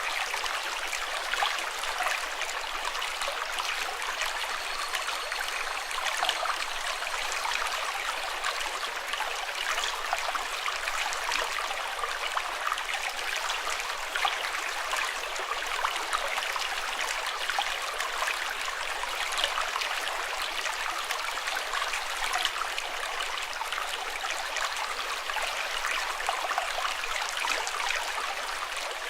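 Running water flowing steadily, a constant splashing babble without let-up.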